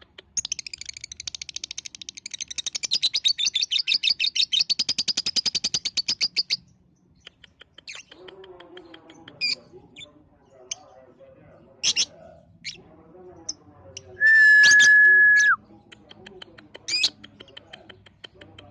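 Lovebird singing: a long, fast chattering trill for about the first six seconds, then scattered sharp chirps. About two-thirds of the way in, a steady high whistle lasting about a second and a half is the loudest sound.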